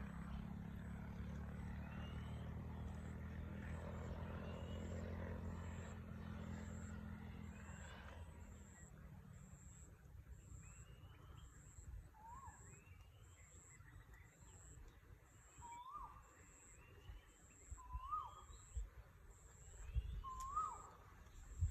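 A low, steady hum that stops about eight seconds in, followed by a bird calling repeatedly: short notes that rise and fall, every second or two, with fainter higher chirps among them.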